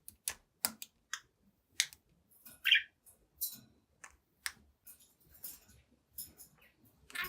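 Young budgerigar making a run of sharp, irregular clicks, about two or three a second, with one short chirp about two and a half seconds in.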